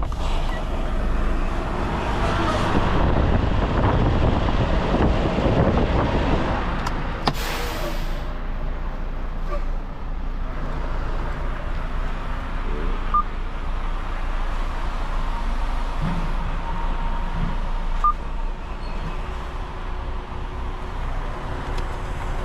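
A semi-truck running and rolling at low speed, a steady rumble with road noise. There is a brief sharp hiss about seven seconds in.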